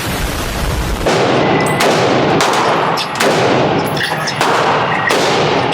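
A rapid string of gunshots, about eight in under six seconds, each followed by a long echoing tail that runs into the next shot.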